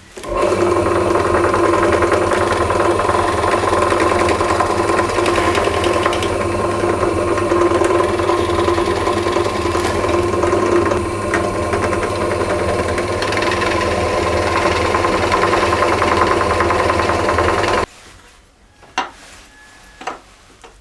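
Electric power tool running steadily under load, then switched off suddenly about 18 seconds in, followed by a couple of faint clicks.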